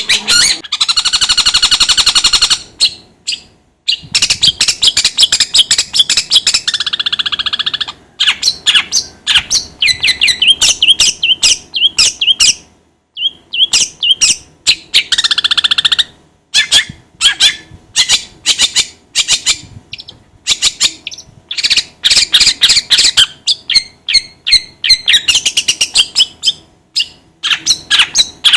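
Songbird singing loudly: rapid chattering, harsh repeated notes and buzzy trills, in phrases broken by short pauses.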